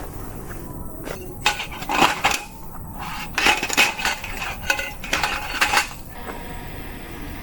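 Metal utensils clinking and scraping against cookware, a run of sharp knocks with short ringing between about one and a half and six seconds in.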